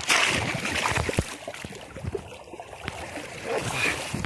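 River water rushing steadily, with scattered low knocks and scuffs close to the microphone.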